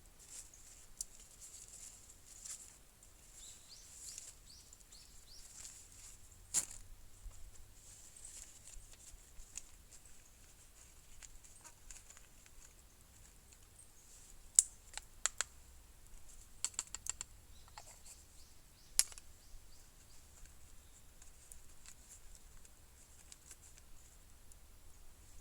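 Small wood fire crackling: scattered clicks and a few sharp pops, the loudest about 15 and 19 seconds in. Faint high bird chirps are heard in the first few seconds.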